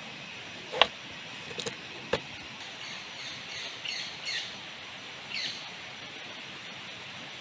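A bird calling with a string of short, quick falling chirps over a steady background hiss. A few sharp knocks come in the first two seconds, and a thin high whine cuts off suddenly after about two and a half seconds.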